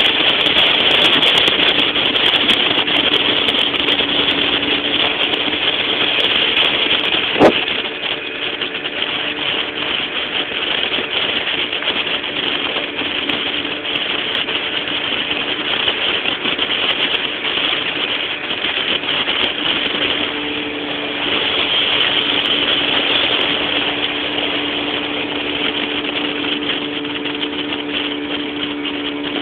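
Duck boat's motor running steadily at speed, its engine hum carried on a constant rushing noise. A single sharp knock comes about seven seconds in, and the sound is a little quieter after it.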